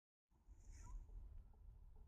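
Near silence: a faint low rumble, with a brief soft hiss just under a second in.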